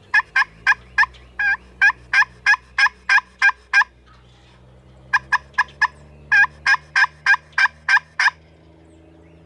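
Turkey yelps, most likely from the hunter's call: two long runs of about a dozen evenly spaced yelps each, about three a second, with a short pause between the runs. The calling is meant to let the nearby gobbler know a hen is there and draw him in.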